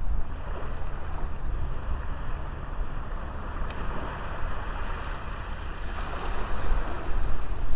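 Sea waves washing onto a small beach in a steady hiss, with wind buffeting the microphone as a low rumble. The wash swells about six seconds in and grows louder near the end.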